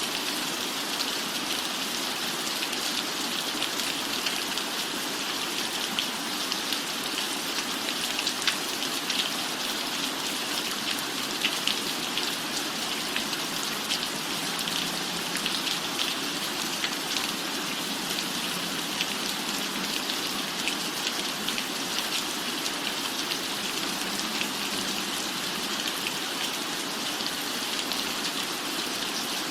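Steady rain falling on a cabin roof: an even hiss with many small drop ticks scattered through it.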